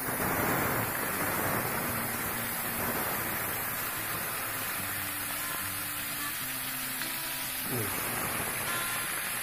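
Chicken pieces deep-frying in hot oil in a wok, sizzling steadily. The sizzle sets in abruptly and is loudest in the first second.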